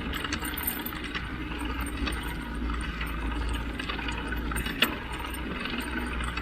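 A bicycle and its dog-leash hardware rattling and jangling on a ride, with scattered light ticks and one sharp metallic click about five seconds in. A steady low wind rumble sits on the microphone.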